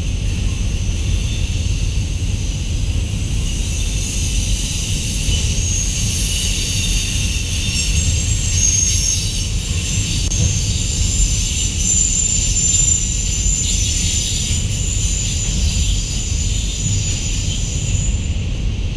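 Freight train's autorack cars rolling past: a steady low rumble of wheels on rail, with thin high-pitched wheel squeal that is strongest in the middle.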